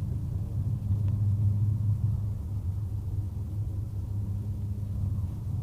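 Steady low rumble of a running motor vehicle, a constant drone with no change in pitch.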